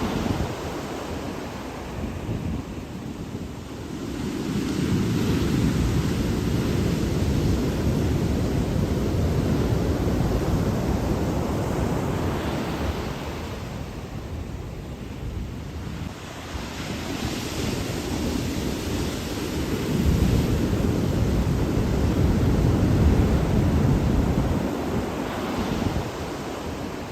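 Ocean surf: waves breaking and washing up the shore, the noise rising and falling in long swells with a hiss of foam as each wave spills. Wind buffets the microphone with a low rumble.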